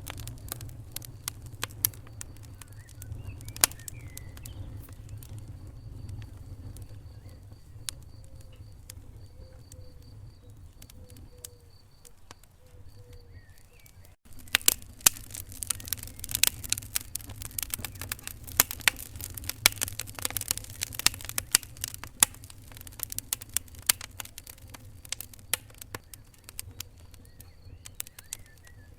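Wood fire crackling in a fireplace: irregular sharp pops and snaps over a low, steady rumble of burning. About fourteen seconds in the sound cuts briefly, and the crackling then comes denser and louder.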